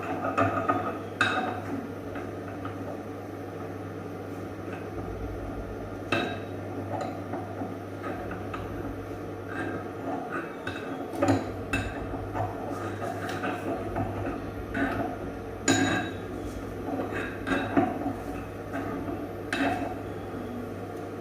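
Cookware and utensils clinking and knocking at irregular intervals while cooking fried rice, over a steady low hum.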